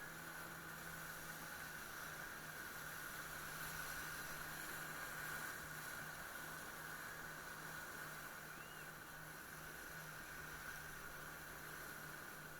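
Jet ski engine running at a steady speed, heard faint and even under a constant hiss.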